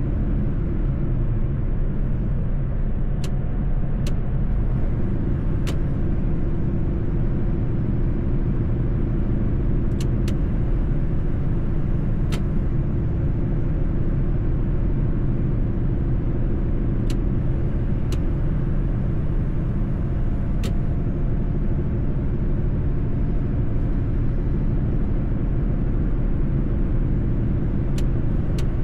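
Mercedes-Benz truck's diesel engine running steadily on the road, a constant low rumble with tyre and road noise. A few faint ticks are scattered irregularly through it.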